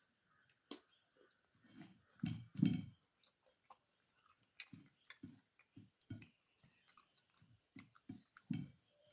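Close-miked mouth sounds of a person chewing beef biryani: wet clicks and smacks at about two a second, with a couple of louder bites in the first few seconds.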